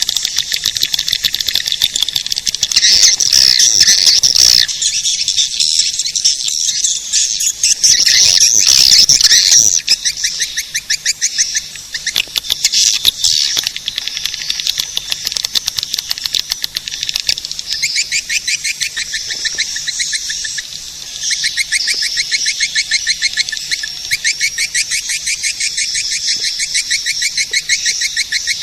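Recorded swiftlet calls played as a swiftlet lure: high, rapidly repeated chirping trills in dense overlapping chatter, louder for a few seconds twice in the first third.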